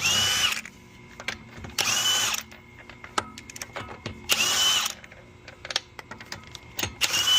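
Handheld power tool run in four short bursts about two seconds apart, each a brief whir about half a second long.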